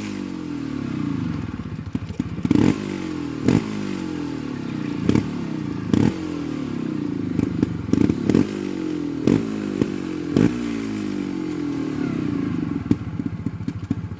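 Trials motorcycle engine blipped sharply again and again, about every one to two seconds, each burst of revs falling back toward idle. Clattering knocks come in with the blips.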